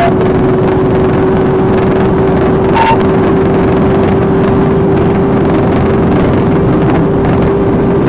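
Police car driven hard in a pursuit: loud, steady engine and road noise with a constant drone, and one short electronic beep about three seconds in.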